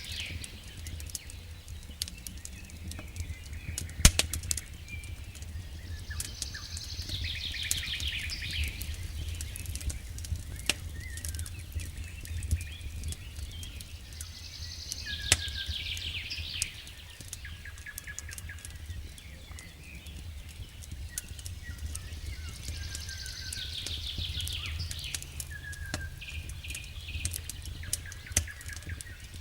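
Wood fire crackling in a fireplace, with scattered sharp pops over a low steady rumble; the loudest pop comes about four seconds in. A high chirping bird-song phrase comes back about every eight to nine seconds.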